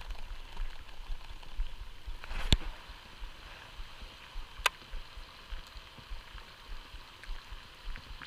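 Quiet outdoor ambience on a pond: a low wind rumble on the microphone under a faint steady hiss, with two sharp clicks about two seconds apart.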